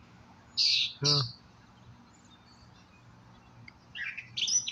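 Birds chirping: a short burst of high chirps about half a second in, then a longer run of chirps near the end.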